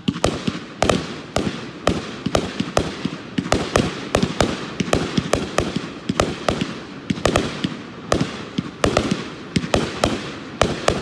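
A 30-shot consumer firework cake, Ravaged, firing its shots in quick succession: a dense string of sharp bangs, about three a second. It is a finale-style cake.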